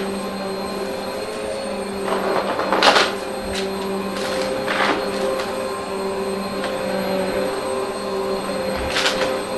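Vacuum cleaner running with a steady motor hum and rushing air, with a few brief louder surges of airflow noise: around two to three seconds in, near the middle, and near the end.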